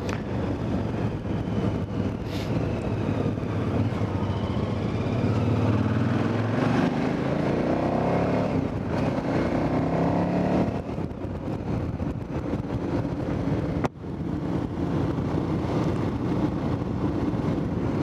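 KTM 990 Adventure motorcycle's V-twin engine running on the move, with road and wind noise. The engine note rises under acceleration in the middle, and there is a brief sharp drop about two-thirds of the way through.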